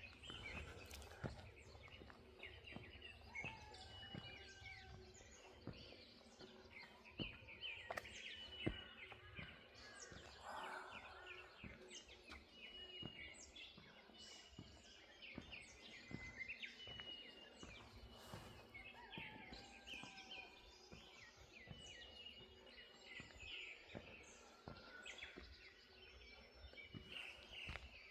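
Faint morning birdsong: several small birds chirping and whistling in short repeated phrases, with soft footsteps.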